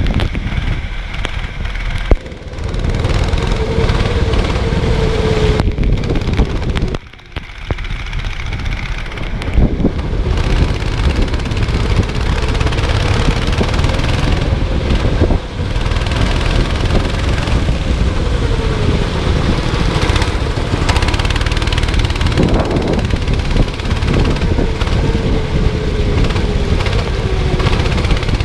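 Racing kart engine running hard, its pitch repeatedly climbing and dropping as the kart accelerates and slows for corners, over a dense low rumble. The sound drops away briefly about seven seconds in.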